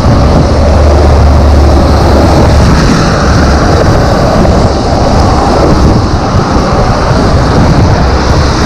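Loud, steady wind rumble on the microphone with the hiss of rain and wet road while riding an e-bike through the rain; the rumble is heaviest in the first few seconds.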